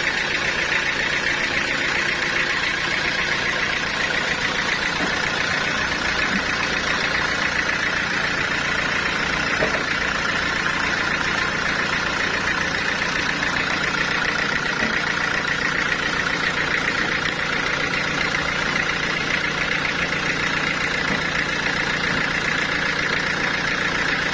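Sawmill saw machinery running steadily: an engine-like drone with a constant high hum that does not change.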